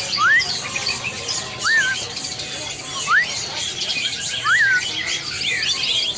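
Many caged songbirds chirping and twittering together. Over them comes a loud, clear whistle that sweeps upward, heard four times about a second and a half apart.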